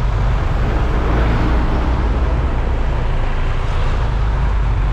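Steady wind rushing over the microphone of a moving scooter, a heavy low rumble with road and engine noise beneath it.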